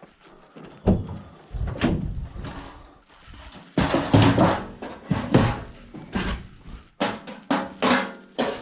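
A stainless steel sink being handled as scrap: a string of metallic clanks and thuds, some ringing briefly.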